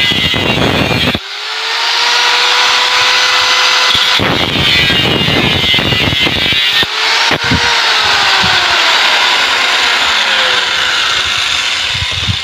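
Angle grinder cutting through the steel shell of a refrigerator compressor, a harsh hiss over the disc's steady whine, which sags in pitch as it bites. The cut pauses briefly about four seconds in and again around seven seconds.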